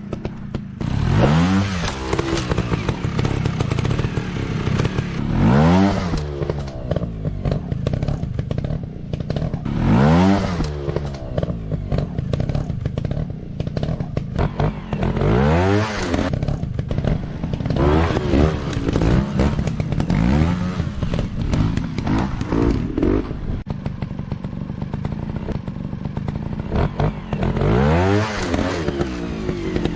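Motorcycle engine revving up and dropping back again and again, a rising-and-falling burst every few seconds over steady running, with clattering and scraping.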